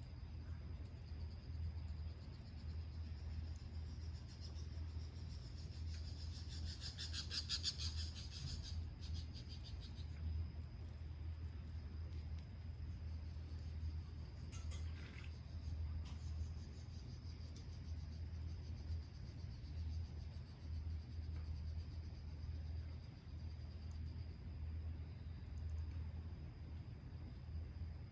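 Insects trilling at dusk: a steady high chirring throughout, with a louder, rapidly pulsing trill swelling and fading between about four and ten seconds in and a shorter one later, over a steady low hum.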